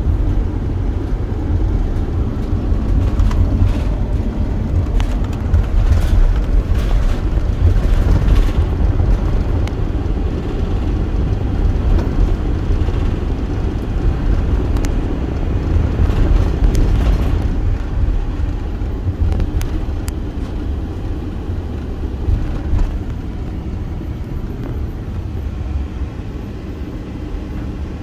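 A car driving: a steady low rumble of road and engine noise that eases off slightly over the last several seconds.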